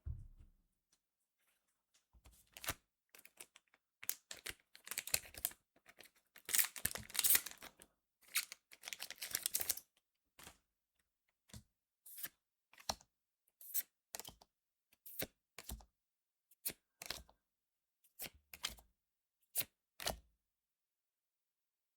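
Foil trading-card booster pack torn open and crinkled for several seconds, then a run of short, sharp snaps, about one a second, as the cards are handled one by one.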